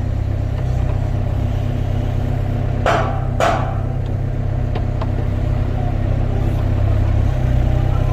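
Excavator diesel engine running steadily with a low drone. About three seconds in, two short noisy sounds come half a second apart.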